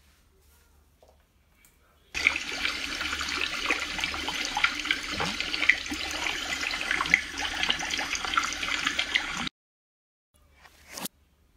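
Aquarium water bubbling, a dense fizzing wash full of small bubble pops, starting about two seconds in and cutting off suddenly some seven seconds later. A short rising swish follows near the end.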